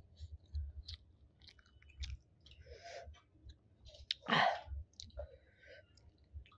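Close-miked chewing of a mouthful of sticky rice and chicken curry: soft wet clicks and lip smacks, with one louder, longer wet mouth sound about four seconds in.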